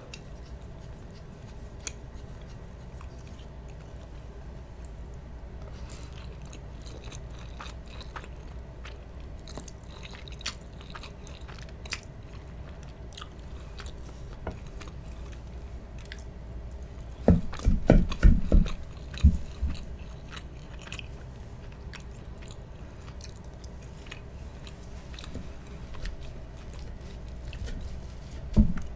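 Close-miked chewing and wet mouth sounds of someone eating spaghetti and meatballs, with many small clicks. About two-thirds through comes a cluster of loud low thumps, and one more just before the end.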